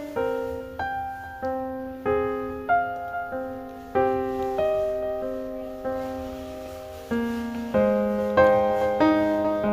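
Background music: slow piano, single notes and chords struck one after another, each fading before the next.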